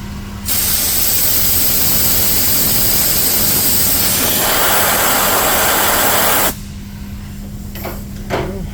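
A steady rush of blown air for about six seconds, starting and cutting off abruptly, over a constant low hum.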